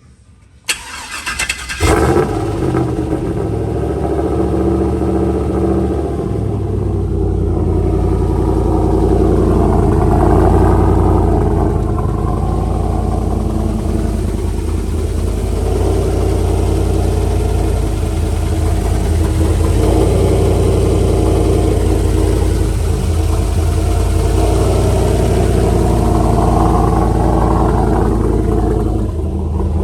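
Turbocharged LS V8 cranked over by the starter for about a second, then catching and running steadily. This is the engine's first startup after the swap.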